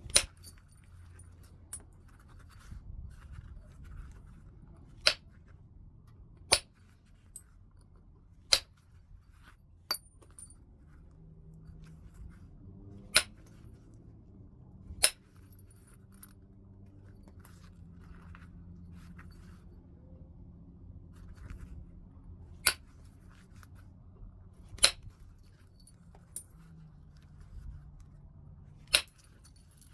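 Flintknapping on heat-treated Burlington chert: about ten sharp, glassy clicks as flakes are struck off, coming singly and irregularly a few seconds apart, with a few softer taps between them.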